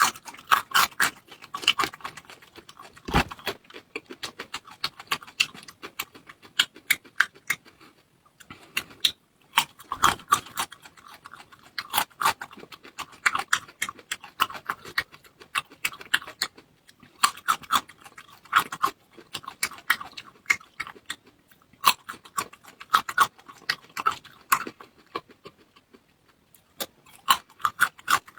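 Close-miked chewing and mouth sounds: clusters of wet smacks and clicks in bursts with brief pauses, and a couple of dull thumps.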